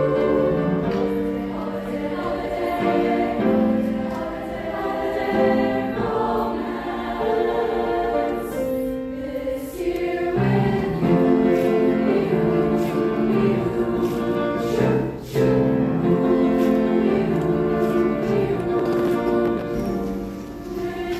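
High school choir singing, holding long sustained chords that change every second or so.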